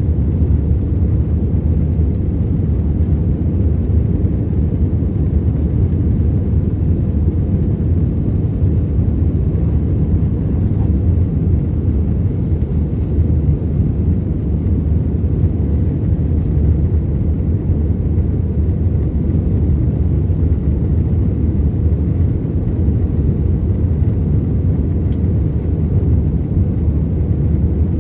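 Steady low rumble inside the cabin of an Airbus A321-211 in flight: its two CFM56 engines and the airflow over the fuselage, heard from a window seat.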